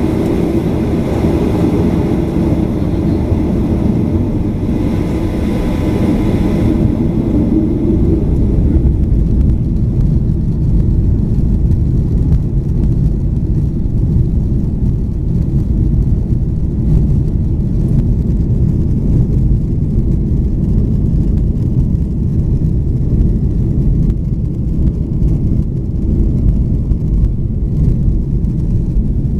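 Cabin noise inside a Boeing 737-800: its CFM56-7B jet engines running with a heavy low rumble. Steady whining tones and hiss fade about seven seconds in, leaving the rumble with light rattling.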